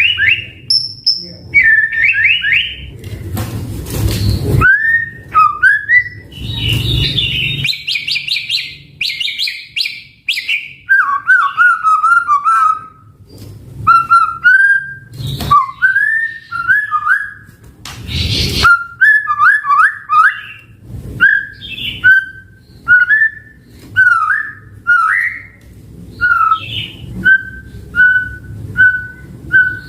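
White-rumped shama (murai batu) singing a varied, loud song: fast whistled phrases and trills, broken by three harsh rasping notes. From about 19 seconds in, it settles into short repeated whistles roughly once a second.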